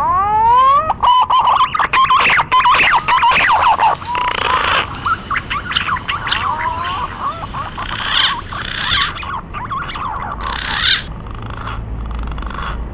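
Green pigeon (punai) lure call: a busy run of whistled notes that glide up and down, several overlapping, thinning out over the last few seconds.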